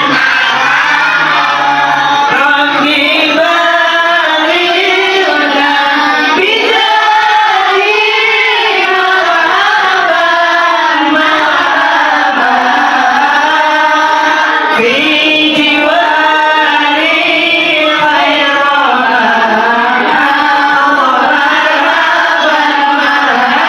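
A group of voices singing sholawat together in unison, a devotional Islamic song with long, gliding melodic lines.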